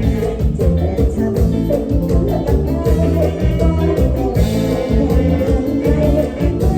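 Live band playing an upbeat Isan toei dance tune, with a steady, regular beat, a strong bass line and singing.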